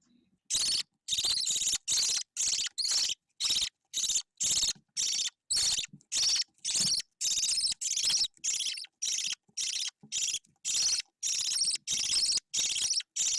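Budgerigar chick giving a long run of raspy, evenly repeated begging calls, about two a second.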